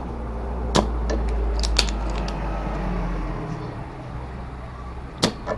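A few sharp clicks and taps over a low steady hum. The hum cuts out about three and a half seconds in.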